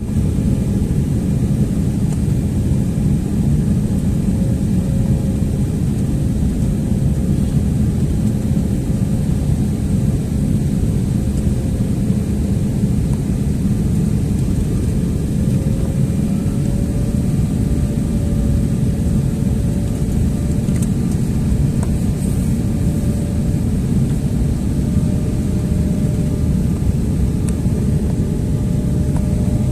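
Steady airliner cabin noise on approach: a loud, even rush of engines and airflow, with a faint humming tone that drifts slightly in pitch.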